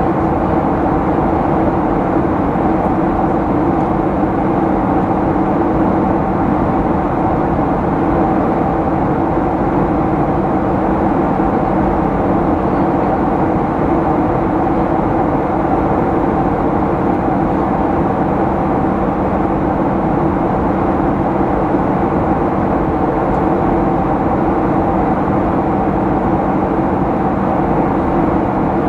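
Steady cabin drone of a Boeing 737-800 in flight: the constant rush of air and the hum of its CFM56-7B turbofan engines, with a few unchanging hum tones over the noise.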